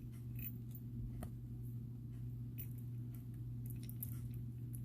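Scattered faint clicks and ticks of small beads being handled while a bracelet is strung, over a steady low hum.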